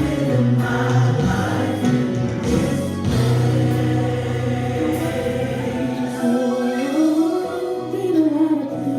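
Recorded gospel song with choir singing over sustained bass and keyboard chords; the bass drops out about six seconds in.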